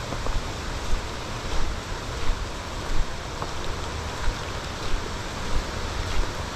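Steady hiss of rain with wind gusting and rumbling on the microphone.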